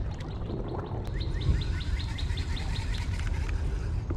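A bird calling a rapid series of short, falling notes, about five a second for some two and a half seconds, starting about a second in, over a steady low rumble.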